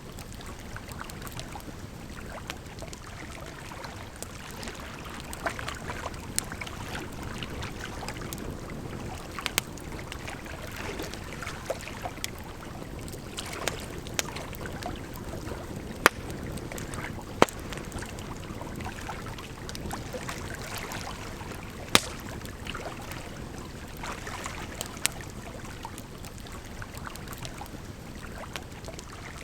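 Wood campfire crackling, with irregular sharp snaps and pops, a few louder ones around the middle, over a steady rush of running water.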